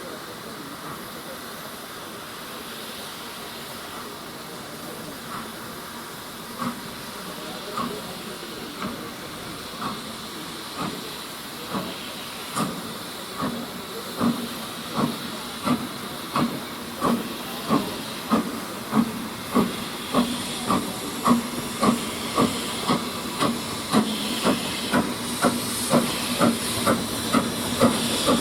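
Steam locomotive getting under way: a steady hiss of steam, then exhaust beats from the chimney that quicken from about one a second to about two a second and grow louder as it gathers speed.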